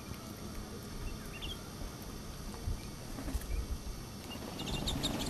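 Wild songbirds giving short, high chirps: a few faint ones about a second and a half in, and a quick cluster near the end, over a steady low rumble.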